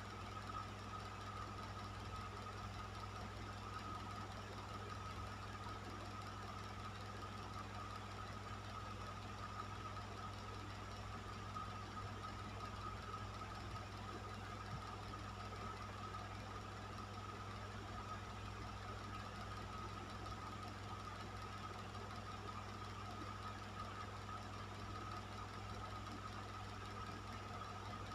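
Electric fan running steadily: a low motor hum with a steady whine and an even rush of air.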